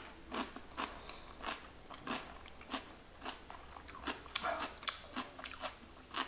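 Close-up chewing of a mouthful of stir-fried mushroom, zucchini and rice, with soft wet crunches about two a second.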